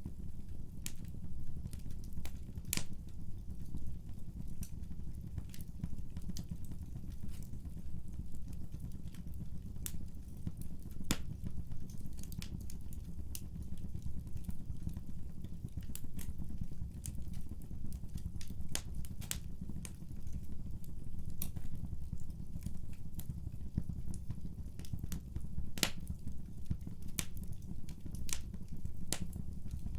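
Wood fire in a fireplace burning, with irregular sharp crackles and pops over a steady low rumble of the flames.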